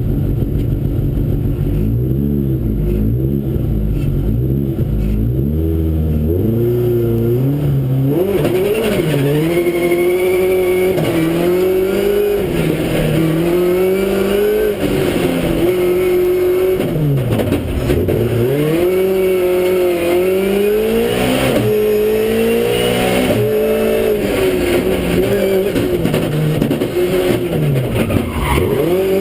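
Race car engine heard from inside the cockpit, at lower revs for the first several seconds, then revving hard, its pitch climbing and falling through the gears. The revs drop steeply twice, late in the middle and near the end.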